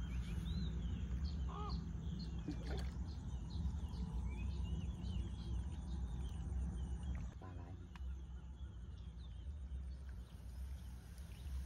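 Small birds chirping and calling again and again over a steady low rumble.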